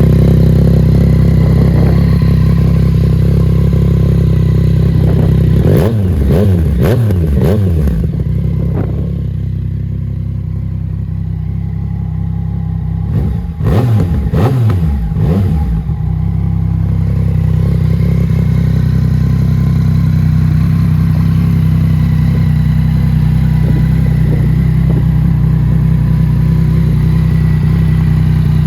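2019 Yamaha MT-09's 847 cc three-cylinder engine idling through a Scorpion aftermarket exhaust. The throttle is blipped several times in quick succession about six seconds in and again around fourteen seconds, the revs rising and falling each time before it settles back to idle.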